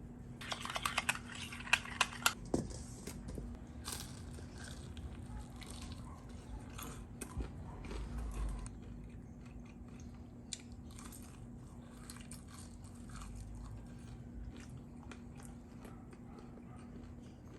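A person biting into crispy fried chicken and chewing: a burst of loud crunches in the first couple of seconds, then quieter chewing with small crackles, over a faint steady hum.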